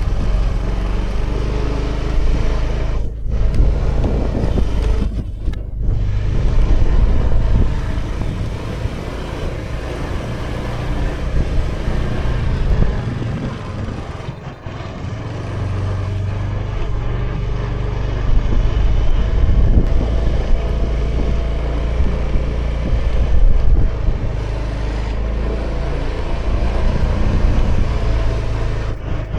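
A Honda Vision scooter's small single-cylinder engine running at riding speed, with wind rushing over the action camera's microphone. The level rises and falls as it goes, dipping briefly about halfway through.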